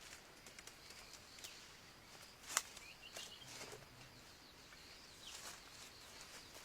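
Quiet rural outdoor ambience: a faint steady high hum, a few faint bird chirps, and scattered small clicks and rustles, with one sharp click about two and a half seconds in.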